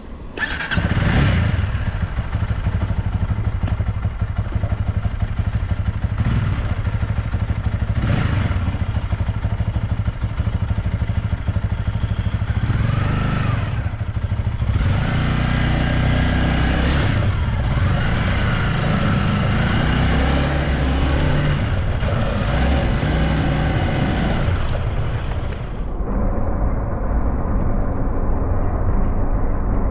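Honda Rebel 300's single-cylinder engine running loudly, with its pitch rising and falling a few times through the middle as the bike accelerates and eases off.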